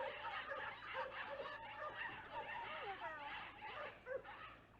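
A flock of young chickens peeping and cheeping, many short calls overlapping, some sliding up and down in pitch.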